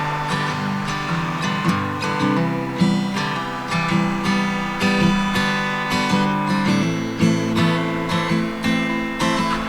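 Acoustic guitar strummed in a steady rhythm, playing the introduction of a gentle song with no singing yet.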